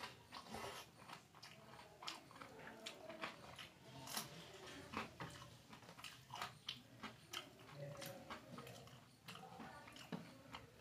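Close-miked mouth sounds of a person chewing and biting food, with frequent irregular crunchy clicks and smacks.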